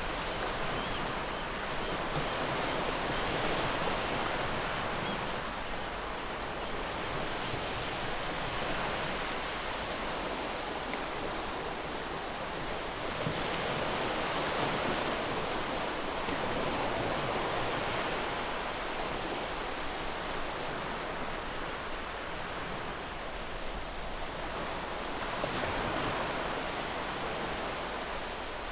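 Sea surf washing on the shore, a continuous rushing that swells and eases every few seconds.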